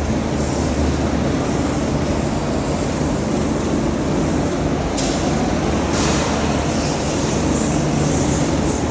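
Go-karts running on a wet indoor karting track, a steady engine noise throughout, with two short sharp clicks about five and six seconds in.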